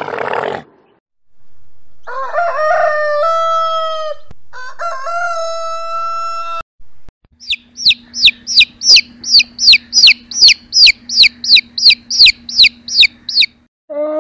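A rooster crows twice, two long pitched calls one after the other. Then baby chicks peep rapidly, about three high, falling peeps a second, over a steady low hum. A short rough animal grunt ends just at the start.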